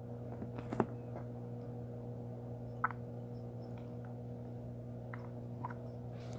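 Slime being handled: a few scattered small wet clicks and pops, the sharpest about a second in, over a steady low electrical hum.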